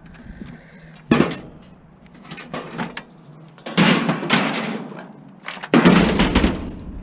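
Clunks and rattling of plastic and metal parts as a fax machine is pulled apart by hand: a sharp knock about a second in, then two longer bouts of clattering.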